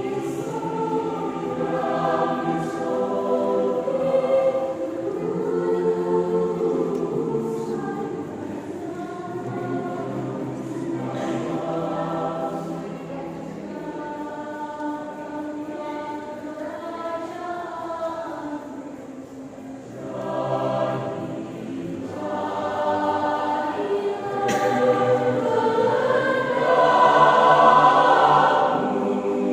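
A church choir singing a hymn in several parts, with voices holding chords that swell louder near the end.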